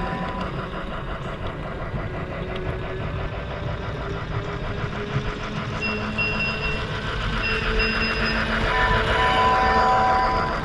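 Lionel O-gauge toy train running on its track: a steady clatter of wheels ticking over the rail joints, with steady whining tones coming and going, growing louder near the end as the train comes close.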